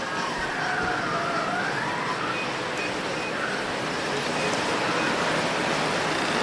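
Blizzard wind blowing steadily, with a faint whistle that dips and then rises in pitch during the first two seconds.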